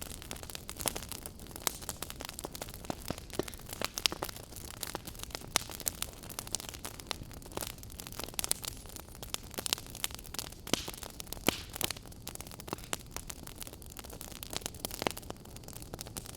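Wood fire burning in a fireplace, with irregular sharp pops and crackles over a low steady rush.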